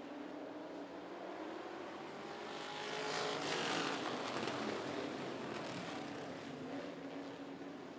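A pack of classic-car dirt-track race cars accelerating on a restart. The engines grow louder as the field passes, loudest about three to four seconds in, then fade a little.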